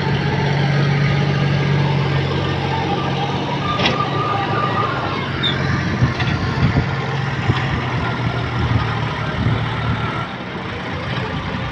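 Heavy vehicle engine running steadily, its drone dropping slightly in pitch twice, with scattered knocks and clatters partway through.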